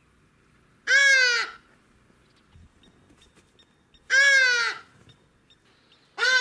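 A bird calls three times, loud. Each call lasts about half a second, with a pitch that arches up and then falls, and the calls come about three seconds apart. The third begins just before the end.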